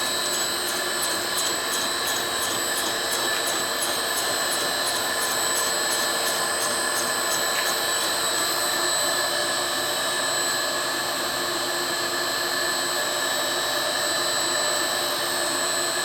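Home-made lathe running with a steady whine while a carbide-tip cutter turns the end of a hardened steel ball screw with light cuts. About two or three faint ticks a second during the first half.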